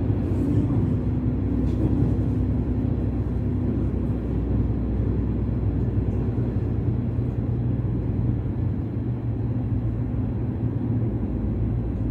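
Passenger train running along the tracks, heard from inside the carriage as a steady low rumble.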